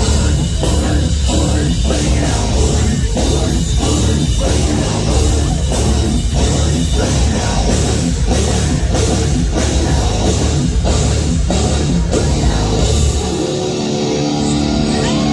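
A live heavy metal band playing loud, with pounding drums and distorted guitars. About two seconds before the end the drums and bass drop out, and a guitar rings on alone with a few bending notes.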